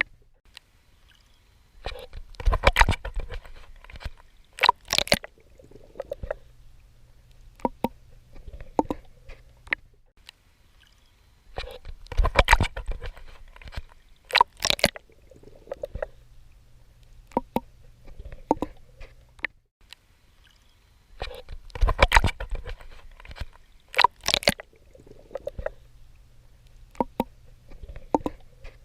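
Swimming strokes splashing and sloshing in water, in clusters of sharp splashes with softer swishing between. The same pattern recurs about every ten seconds.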